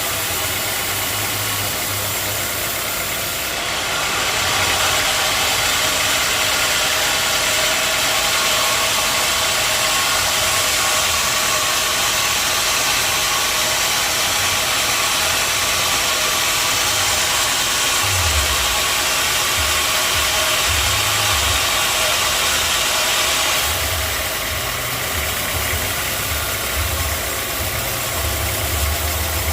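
Sawmill running steadily, its engine droning under a hiss. From about four seconds in to about twenty-three seconds the sound grows louder and hissier, as from a blade working through a log.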